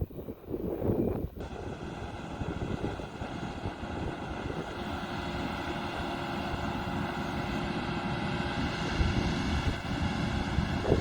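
Wind buffeting the microphone, then, about a second and a half in, large diesel harvest machinery running steadily, with a whine of several steady tones over the engine. Wind gusts return near the end.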